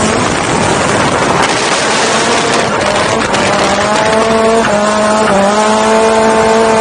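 S15 drift car's turbocharged SR20 four-cylinder held at high revs, pitch nearly steady, with small steps in pitch in the second half, while the tyres squeal and skid through a drift.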